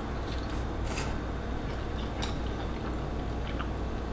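A person chewing a mouthful of ramen noodles and kielbasa, with soft, scattered wet mouth clicks over a low steady hum.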